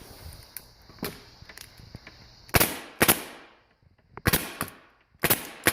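Hitachi pneumatic staple gun firing about six times at irregular intervals, each shot a sharp crack with a brief fading tail. It runs on air stored in the compressor tank, so the compressor stays off.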